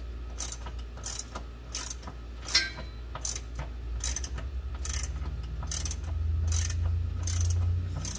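Hand ratchet clicking in short bursts, about three every two seconds, as it is swung back and forth on a 10 mm deep-well socket and extension to work a bolt loose. A low steady hum comes in about five seconds in.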